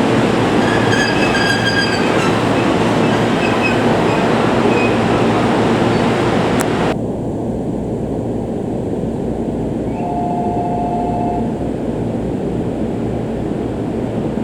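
A Shirasagi limited-express electric train running on the rails, a loud steady rumble of wheels and motors with a high whine in the first couple of seconds. The hiss drops away suddenly about seven seconds in and the train runs on lower and quieter. A brief steady two-note tone sounds about ten seconds in.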